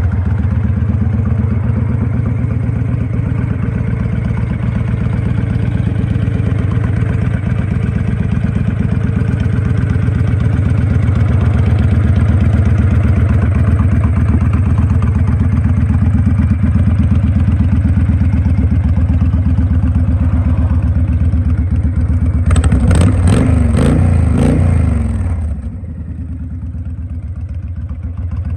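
2004 Honda 1300 Custom motorcycle's V-twin engine running steadily, revved several times in quick succession near the end, then dropping back to a quieter idle.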